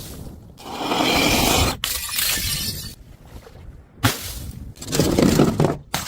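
Glass shattering and crunching in several loud bursts about a second long, each starting and stopping abruptly, with a sharp impact about four seconds in.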